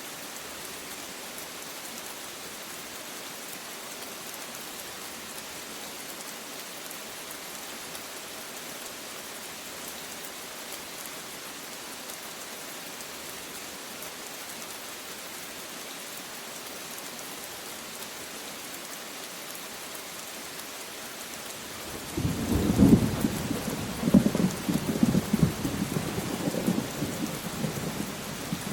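Steady rain hissing, then about three-quarters of the way through a thunder roll breaks in: a deep rumble with two loud claps close together, rolling on unevenly to the end.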